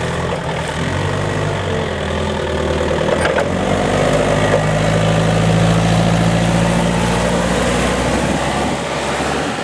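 Diesel engine of a Still RC40-35 forklift truck running, its revs rising about three and a half seconds in, holding, then falling back toward idle near the end.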